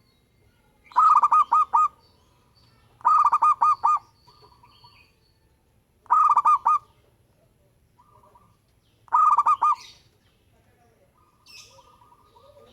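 Zebra dove (perkutut) singing: four phrases of quick, rhythmic cooing notes, each under a second long and a couple of seconds apart. Faint high chirps from other birds come near the end.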